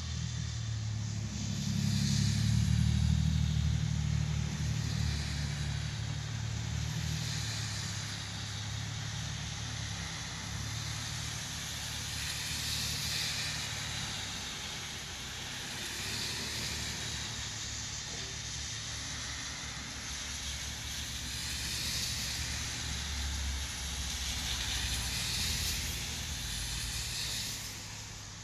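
Steady rain hiss that swells and eases every few seconds, under a deep rumble that is loudest a few seconds in and slowly fades.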